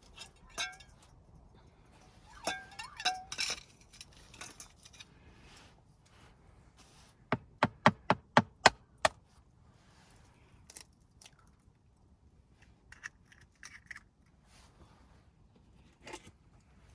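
Knife chopping on a cutting board: a quick run of about seven sharp chops, some four a second, after a few scattered clatters of handling.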